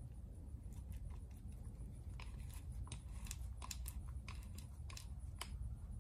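Light, irregular clicks and taps of small metal starter-motor parts being handled during disassembly, thickest in the middle, over a steady low hum.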